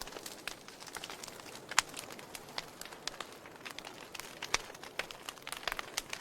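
Burning logs in a fireplace crackling, with irregular sharp pops and snaps over a soft hiss. One louder pop comes about two seconds in.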